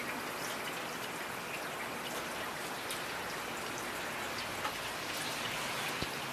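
Steady rain falling, with individual drops ticking close by and one sharper drop about six seconds in.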